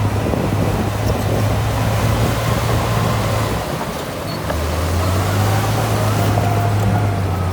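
Heavy earthmoving machine's diesel engine running steadily under load. About four seconds in it dips briefly, then picks up again with a faint whine wavering above it.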